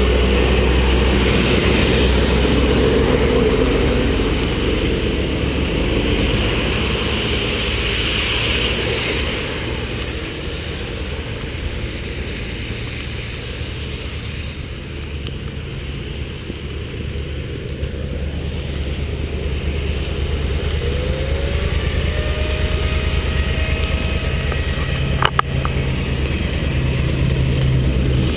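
Motorcycle engine running under way, with steady wind and road noise. The sound eases off in the middle and builds again, with a short rising whine about two-thirds through and one sharp click near the end.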